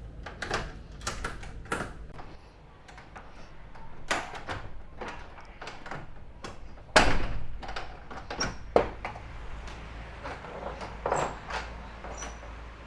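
A door being handled and opened: a string of clicks and knocks, the loudest sharp knock about seven seconds in, over a low steady hum.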